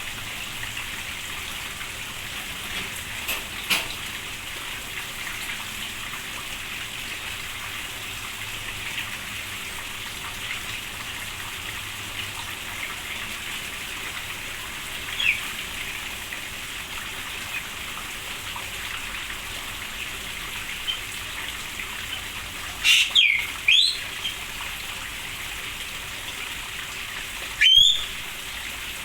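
Steady hiss of rain falling on an aviary, with cage birds calling now and then. The loudest calls are a quick cluster about two-thirds of the way in and a single rising call near the end.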